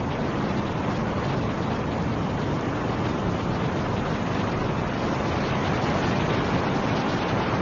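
Steady rush of snowstorm wind, an even noise with no distinct gusts or other events.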